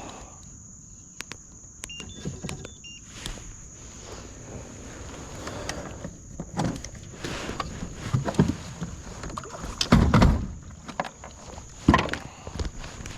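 Plastic kayak hull grounding on the riverbed: irregular scraping, knocking and thumping as the boat drags and bumps on the bottom. The loudest thumps come about ten and twelve seconds in.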